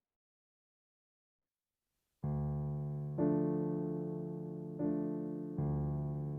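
Silence, then about two seconds in a slow background music track of piano chords begins, with a new chord struck every second or so.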